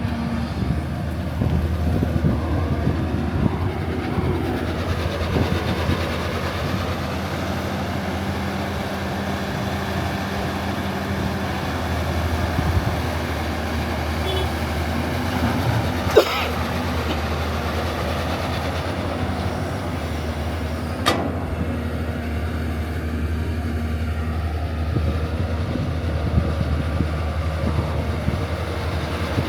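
A steady low mechanical drone like a running motor, with two sharp clicks, one about halfway through and one about two-thirds of the way through.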